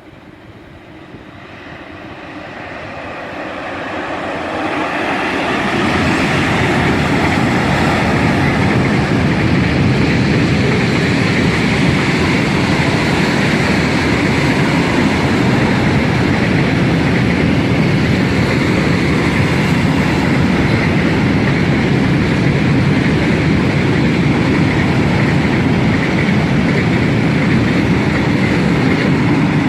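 Freight train approaching and rolling past, its noise building over the first six seconds and then holding loud and steady as the wagons go by.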